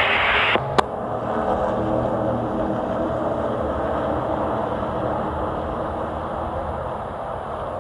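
Race truck engine running steadily at speed on track, heard from inside the cab. A short hiss and a sharp click come in the first second.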